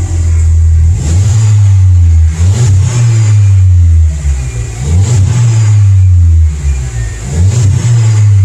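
VW Jetta 1.4-litre turbo four-cylinder revved about four times through its exhaust with the muffler cut off and the resonator still in place, each rev rising, held briefly and falling back to a deep drone.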